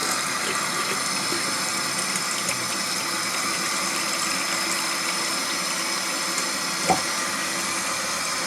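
Water running steadily from a waterfall faucet into a sink, with one short knock about seven seconds in.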